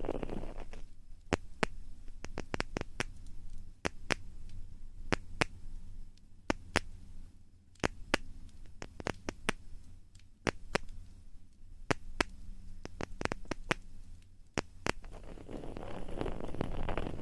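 ASMR ear-cleaning and ear-rubbing sounds made close to a microphone. A dense rubbing rustle gives way about a second in to many sharp, irregular clicks and light scratches, two or three a second. Near the end the rubbing rustle returns.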